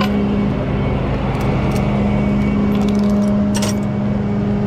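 Rollback tow truck's engine running with a steady hum, with a few light metallic clinks about a second and a half in and again around three seconds in.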